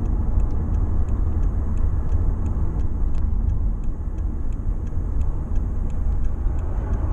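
Car cabin rumble of tyres and drivetrain as the car slows to a near stop under braking, with faint quick ticking about three times a second and no brake pedal noise: the slow-stop brake noise is cured after rust was cleaned from under the ABS wheel speed sensor.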